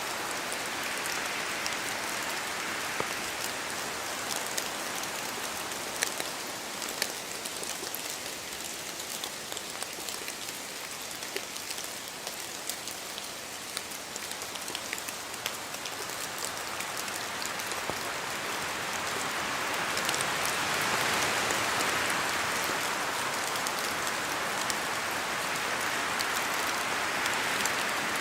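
Steady rain in a forest, with many single drops falling from the trees and ticking sharply over the hiss. About two-thirds of the way through, the hiss swells louder as wind picks up.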